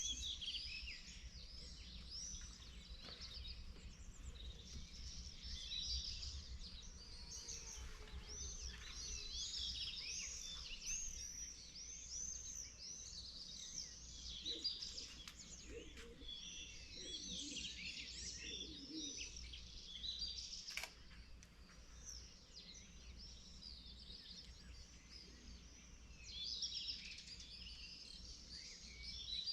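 Morning chorus of many songbirds chirping and warbling at once, their calls overlapping, over a steady low background rumble.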